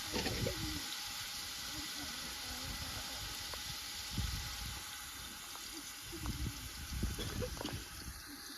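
A steady hissing, rushing noise, with a few short faint voices now and then.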